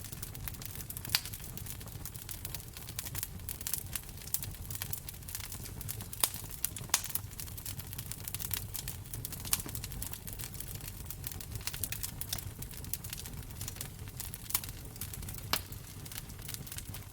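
Wood fire in a fireplace crackling steadily, with a few louder pops, over a low rumble.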